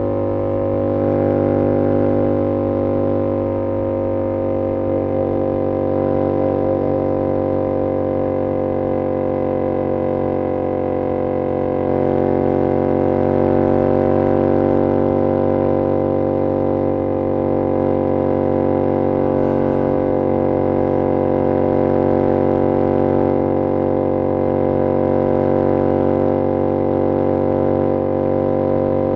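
2022 Yamaha R7's 689cc parallel-twin engine through an SC-Project CR-T exhaust, cruising at steady revs with a steady exhaust drone and only slight changes in pitch.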